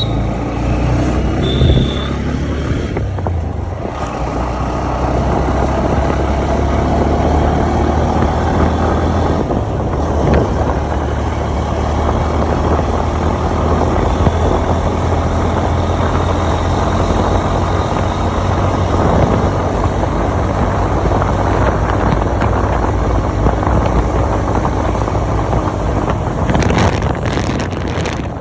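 Honda motorcycle running steadily at road speed, engine drone under heavy wind rush on the microphone.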